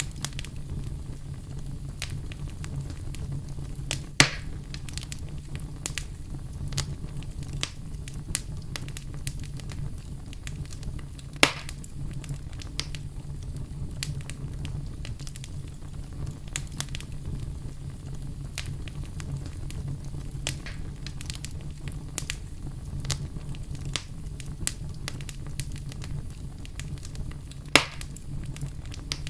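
Burning wood fire crackling steadily over a low, even rumble, with many small pops and three sharp loud snaps, the first about four seconds in, one near the middle and one near the end.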